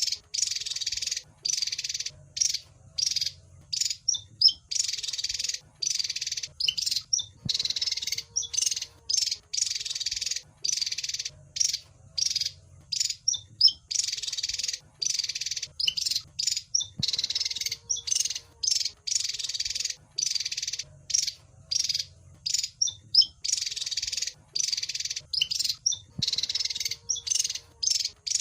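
Javan fulvetta (wergan Jawa) song: rapid, high chattering phrases alternating with short sharp chirps. The same sequence repeats about every nine seconds, as a looped bird-lure recording does.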